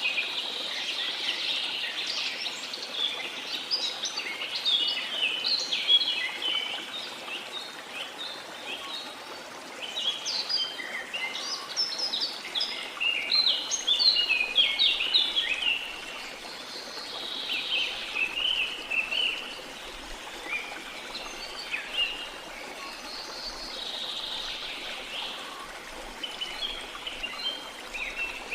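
A chorus of birds chirping and calling in quick, clustered phrases over the steady rush of a flowing river. The birdsong thins out at times and picks up again.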